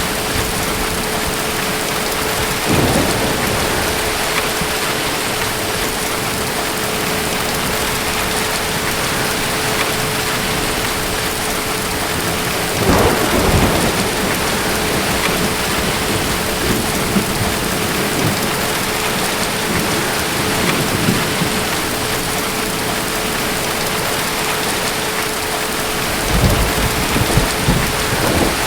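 Steady rain from a night thunderstorm, with distant thunder rolling in low: the strongest rumbles come about 3 seconds in, around 13 seconds and again near the end. A faint steady hum sits under the rain.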